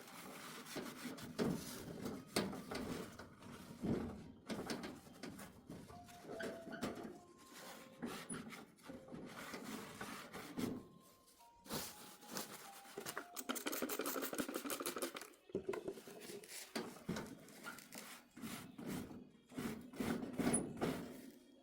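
Hands preparing food: irregular rubbing and scraping with light knocks, with a quicker run of scraping strokes about two-thirds of the way through.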